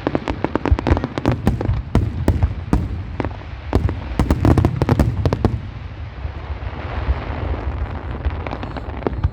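Fireworks going off: a rapid volley of sharp bangs and pops, thinning after about five and a half seconds into a hissing crackle with only occasional bangs.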